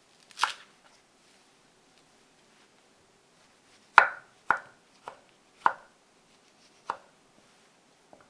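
Kitchen knife chopping food on a cutting board. One softer cutting stroke comes near the start, then a run of about six sharp knocks roughly half a second apart from about four seconds in, the first the loudest.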